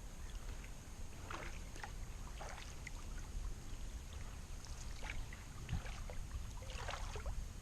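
Kayak paddling: several short splashes of the paddle blades dipping into the water, with water trickling off them, over a low steady rumble.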